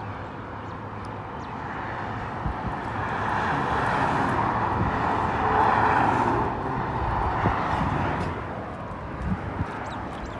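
A vehicle passing by: its road and engine noise swells over a few seconds to a peak about six seconds in, then fades away.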